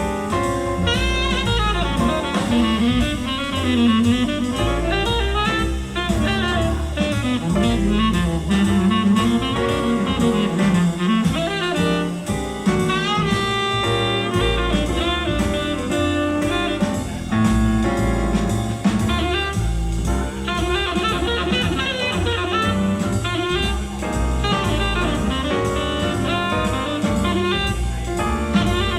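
Jazz recording with saxophone, double bass and drum kit played back through hi-fi loudspeakers, picked up by a microphone in the room.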